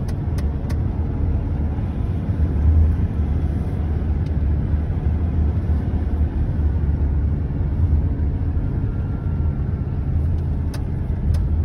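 A moving car heard from inside its cabin: a steady low rumble of engine and road noise, with a few faint clicks near the start and again near the end.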